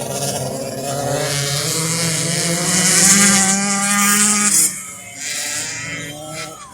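Two-stroke 85cc dirt bike engines racing, one revving high and steady as it passes close, loudest about three seconds in, then dropping away suddenly just before five seconds, leaving quieter engines in the distance.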